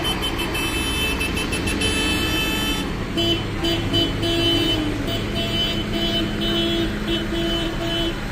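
Tractor engine running steadily, with a repeating pattern of horn-like beeps sounding over it from about three seconds in.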